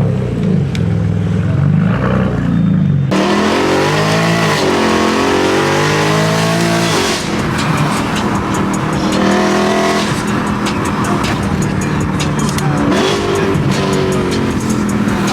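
Car engines revving and accelerating, their pitch rising and falling. The sound changes abruptly about three seconds in.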